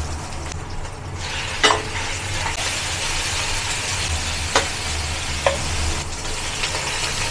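Pork belly pieces frying in hot oil in a wok with garlic, shiitake and green chili, the sizzle growing stronger about a second in as the meat goes in. A metal spatula stirs and knocks against the wok a few times.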